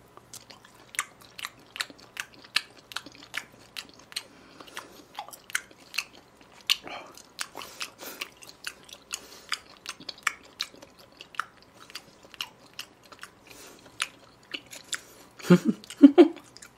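Close-miked chewing of raw beef sashimi: a steady run of wet mouth clicks and smacks, two or three a second, with a few brief voice sounds from the eater near the end.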